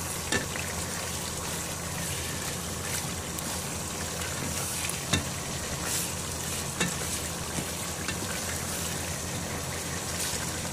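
Gourd curry sizzling in a non-stick pot while a spatula stirs it, with a steady hiss and a low hum beneath. The spatula knocks and scrapes against the pot a few times, most sharply about five seconds in.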